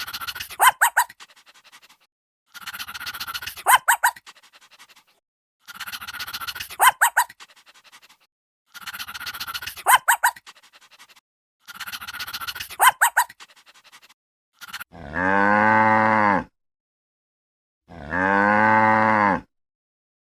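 A cow mooing twice near the end, two long low calls each lasting about a second and a half. They are preceded by a short high-pitched animal cry repeated five times, about every three seconds.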